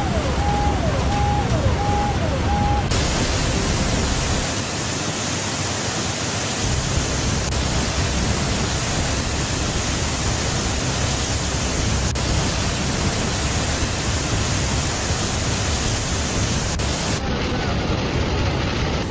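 Steady rushing roar of water. During the first three seconds a falling tone repeats about every two-thirds of a second, then stops.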